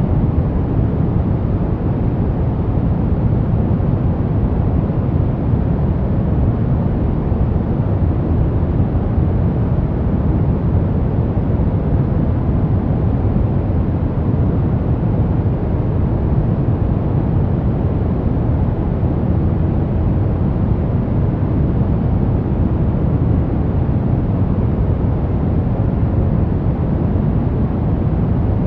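Steady sleep white noise, weighted toward the low end: a deep, even rushing hiss with no changes, made for masking sounds around a sleeping baby.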